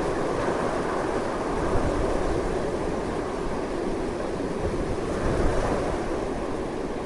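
Strong continuous wind: a steady rushing noise with a low rumble underneath, swelling a little now and then.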